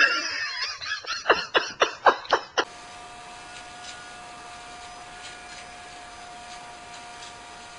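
A rapid run of about six short cries from an animal, each sweeping sharply down in pitch. They stop abruptly, giving way to quiet room noise with a steady electrical hum.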